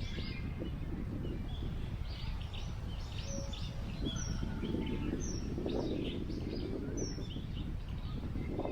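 Wind rumbling on the microphone, swelling for a couple of seconds mid-way, under small birds chirping repeatedly with short, high notes.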